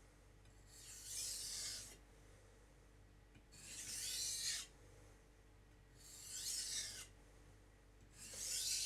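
Steel knife blade drawn edge-trailing across a 400-grit Naniwa Professional whetstone: four slow rasping strokes, each about a second long, with short quiet gaps between them. These are light deburring passes that remove the burr before moving on to the next stone.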